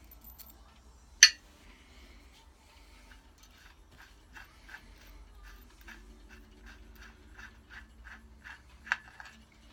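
Hand work on an engine bolt with a new sealing washer: one sharp metallic clack about a second in, then a long run of light, evenly spaced metal clicks, about three a second, with a louder click near the end.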